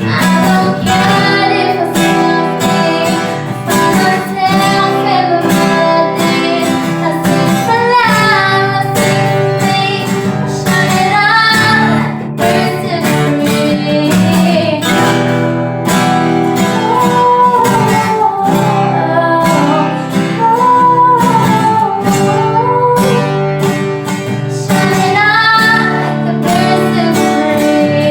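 Acoustic guitar strumming chords behind a woman's singing voice.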